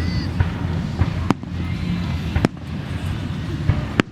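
Fireworks show: several sharp bangs of bursting shells, roughly one a second, over a continuous low rumble of booms.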